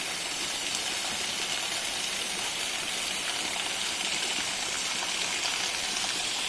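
Small waterfall running with little water, a steady even hiss of falling and splashing water.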